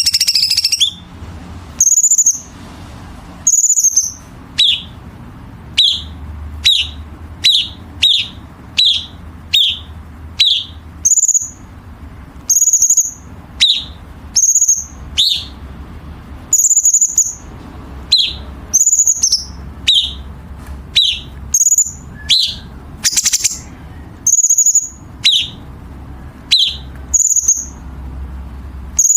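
Cucak cungkok songbird giving a rapid series of short, sharp, harsh calls, about one a second with brief pauses. Some calls are high chips and others drop quickly in pitch. A faint steady low hum runs underneath.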